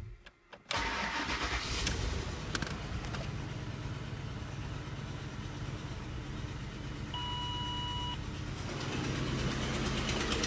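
Ford Explorer 4.6-litre V8 started with the key: it catches abruptly under a second in and settles into a steady idle. An electronic beep sounds for about a second roughly seven seconds in.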